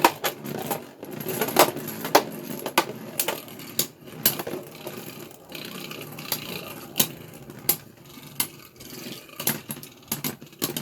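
Beyblade Burst tops battling in a plastic stadium: many sharp, irregular plastic clacks as they collide and hit the stadium walls, over a faint steady whir of spinning.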